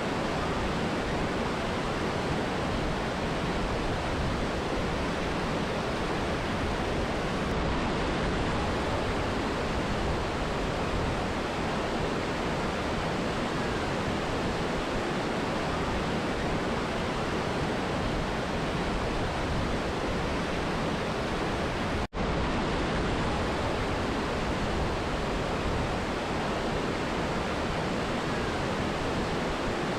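Rushing water of a mountain river and waterfall: a steady, even roar. About two-thirds of the way through it cuts out for a split second and comes straight back.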